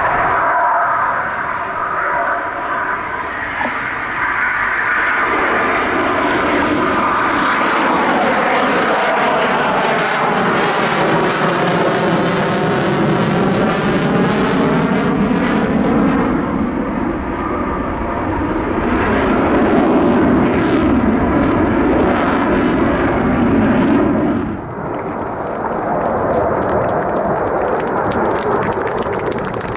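Eurofighter Typhoon jet fighter's twin Eurojet EJ200 turbofans, a loud continuous jet roar as it flies past, with the tone sweeping in pitch around the middle. The roar drops briefly about 24 seconds in, then picks up again.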